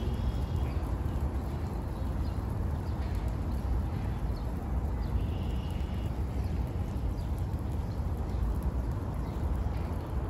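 A few short, high bird chirps, with one brief held whistle about halfway through, over a steady low rumble and hiss of outdoor noise.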